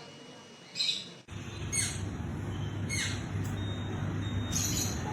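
Parrot giving four short, high calls, two of them falling in pitch. From about a second in, a steady low rumble runs beneath them.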